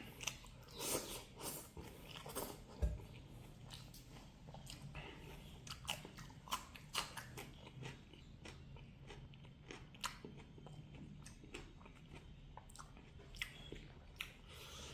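Close-miked eating of pork with mustard greens: chewing and biting, with many irregular short clicks and mouth sounds.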